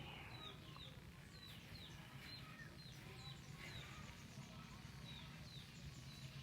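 Faint small bird chirping over and over, short high falling chirps about two a second, over a low steady background rumble.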